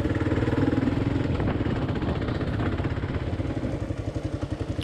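Kawasaki KLR 650's single-cylinder engine running steadily at low revs.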